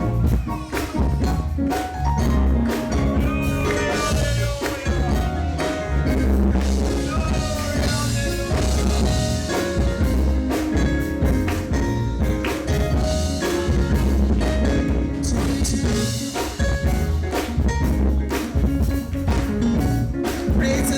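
Gospel band music with a drum kit and a strong bass line.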